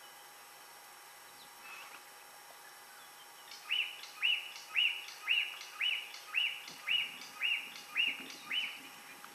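A bird calling a series of about ten identical upswept notes, roughly two a second, starting about three and a half seconds in.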